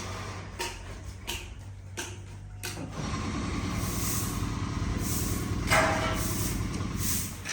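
A workshop machine's motor running steadily, joined about three seconds in by a louder machine drone, after a few sharp knocks of wood being handled.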